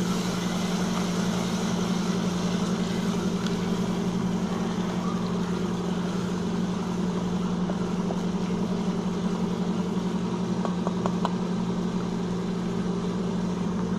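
Spiced masala sizzling in oil in an aluminium pressure cooker as it is stirred, over a steady low mechanical hum, with a few light spatula clicks about ten seconds in.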